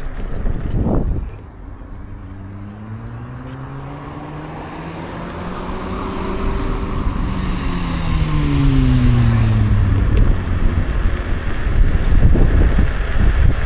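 A car passing close by, its engine hum rising in pitch and growing louder as it approaches, then dropping in pitch after it passes about eight seconds in, over steady wind noise on the microphone.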